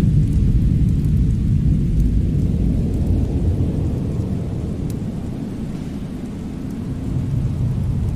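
Winter storm and fireplace ambience: a deep, continuous rumbling roar that eases off about six seconds in and then swells again, with a few faint crackles.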